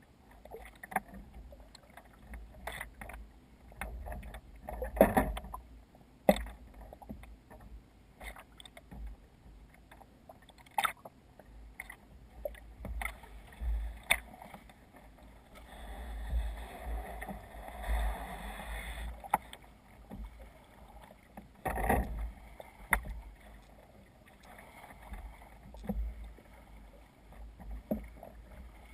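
Water splashing and slapping against a sea kayak's hull, with irregular knocks and splashes and a longer rush of water over the bow about two-thirds of the way in.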